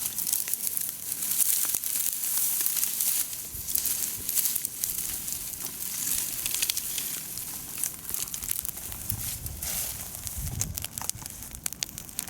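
Bonfire of cut branches and brush burning, with dense crackling and popping throughout.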